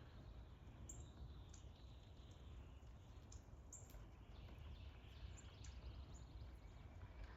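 Faint backyard ambience with scattered short, high-pitched chirps of small birds over a low background rumble.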